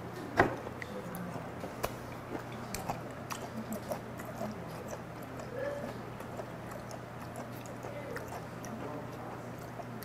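Close-miked eating of raw whiteleg shrimp: a sharp bite about half a second in, then a run of small, irregular mouth clicks as the firm, crisp flesh is chewed.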